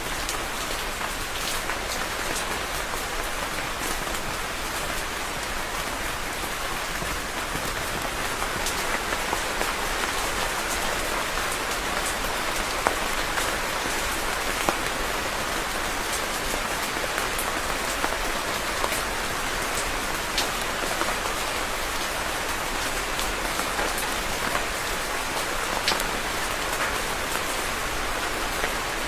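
Steady rainfall: an even hiss of rain with many individual drops pattering sharply on a hard surface.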